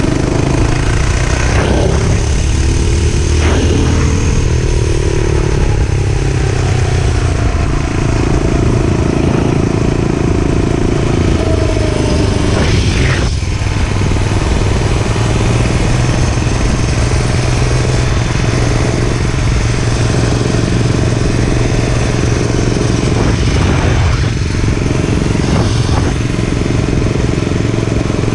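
Gas dirt bike engine running steadily while riding, its pitch rising and falling a few times as the throttle is worked, with a few brief sharp noises.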